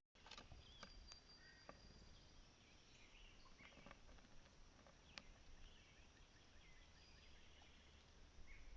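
Faint outdoor birdsong: scattered short chirps and calls from small birds, with a few sharp clicks over a steady low outdoor rumble.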